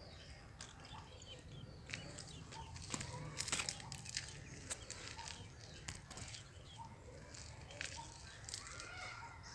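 Young birds in a nest giving short, faint chirps, among scattered clicks and rustles that are loudest a few seconds in, over a low steady hum.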